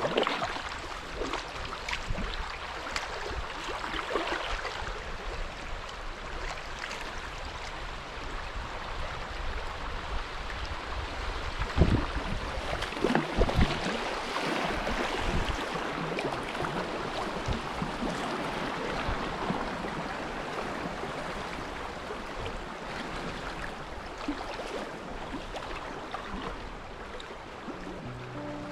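Rushing river water around a kayak working through fast water, a steady hiss of current and splashing. Two or three dull thumps stand out, about twelve and thirteen seconds in.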